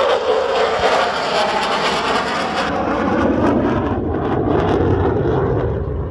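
Royal Danish Air Force F-16 jet flying past, a loud rushing jet noise whose pitch falls steadily as it goes by and eases off slightly near the end.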